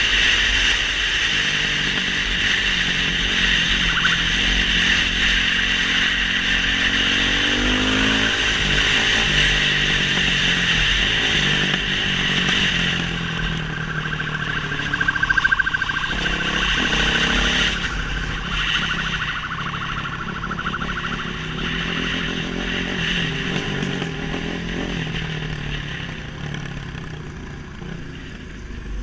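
Motorcycle engine running at speed, its pitch rising and falling with the throttle, over a steady rushing noise; the sound eases off near the end.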